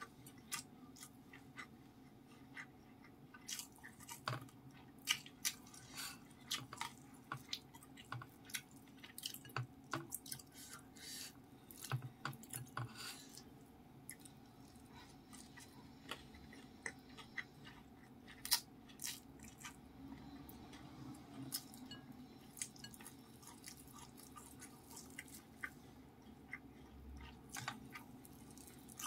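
Close-miked chewing of rice with fried-anchovy chili sambal, petai beans and omelette, eaten by hand: many short, irregular mouth clicks and soft crunches.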